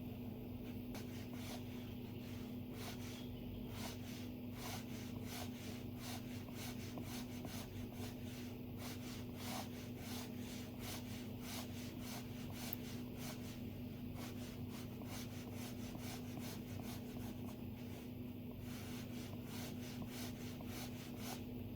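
Stylus tapping and stroking on an iPad's glass screen while drawing: many quick light ticks and scratches, several a second, over a steady low hum.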